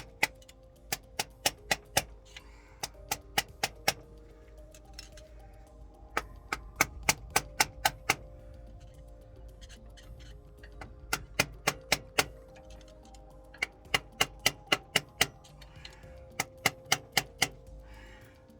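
Quick, sharp taps in runs of about five to eight, several a second with short pauses between runs: a new rear main seal being tapped into the crankshaft seal bore of a Cat C0.5 APU engine through the old seal used as a driver. Background music with sustained tones plays underneath.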